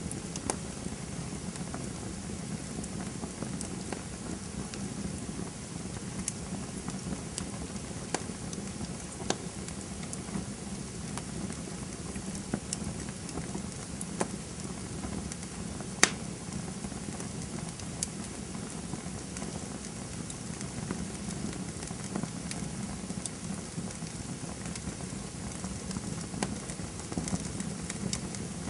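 Campfire burning steadily with a low hiss and irregular crackles and pops from the burning wood, one sharp pop louder than the rest about sixteen seconds in.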